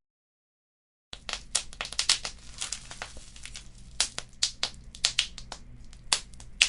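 Wood fire crackling in a fireplace: irregular sharp pops and snaps over a soft hiss, with a few louder pops in the second half. The sound starts about a second in after a moment of dead silence.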